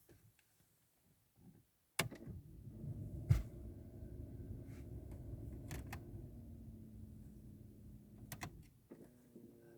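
Mercedes-Benz A-Class (W169) engine being started: about two seconds in a click as the starter engages, the engine catches with a brief surge and then runs with a low rumble, which stops shortly before the end.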